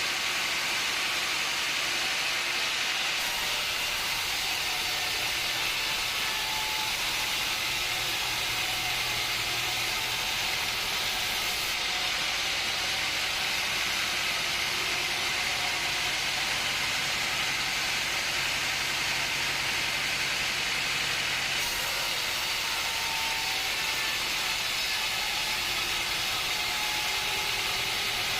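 Woodworking machinery running with a steady, even hiss, with no breaks or separate strikes; the sound changes slightly in its upper range several times.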